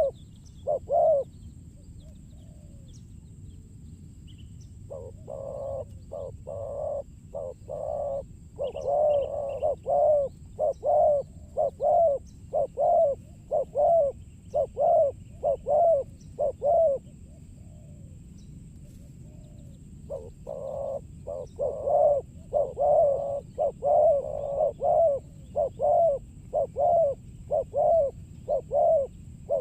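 Spotted doves cooing in long runs of repeated low coos, one to two a second, falling quiet for a few seconds twice before starting again, over a steady low background hum.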